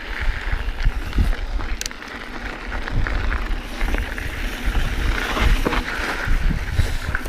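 Mountain bike rolling fast over a rough trail: tyres on dirt and gravel, the frame and parts rattling with many small knocks, and wind buffeting the microphone as a heavy uneven rumble.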